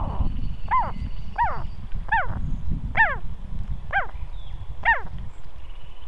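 A bird calling: six short, clear calls about a second apart, each sliding steeply down in pitch, over a steady low rumble.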